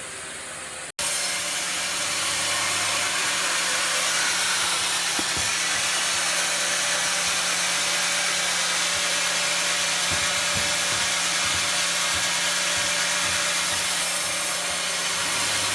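Sawmill saw cutting through wood: a loud, steady noise with a faint low hum, starting abruptly about a second in.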